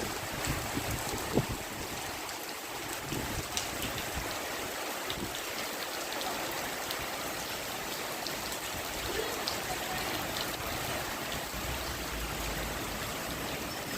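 Rainwater flowing steadily like a stream, with scattered drips and splashes. One sharper knock comes about a second and a half in.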